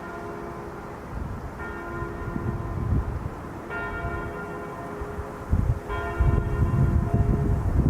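A bell-like tone struck three times, about two seconds apart, each ringing on, with the ring of an earlier strike fading at the start. Low rumble like wind on the microphone comes in during the second half and grows louder.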